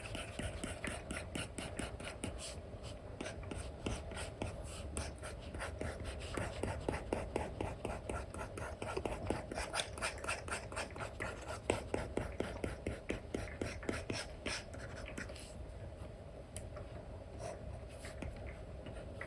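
Apple Pencil 2 with an Elecom nib making quick, scratchy strokes and taps on an iPad's paper-like screen protector. The strokes come thick and fast through the middle and thin out toward the end.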